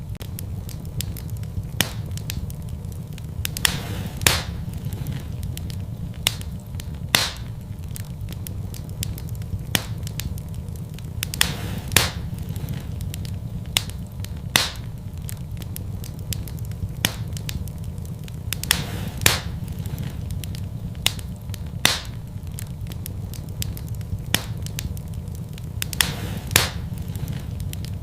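Wood fire burning in a fireplace: irregular crackles and sharp pops, a loud pop every second or few, over a steady low rumble.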